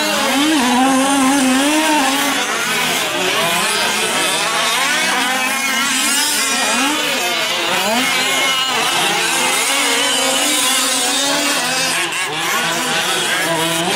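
Several 1/5-scale gas RC trucks racing, their small two-stroke engines revving up and easing off. The overlapping engine notes rise and fall continually.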